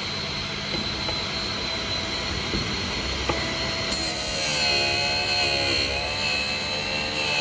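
GD-13 drill bit grinder running, its grinding wheel working the point of a drill bit. It gives a steady high whine, and about four seconds in a wavering, several-pitched whine joins and the sound grows louder.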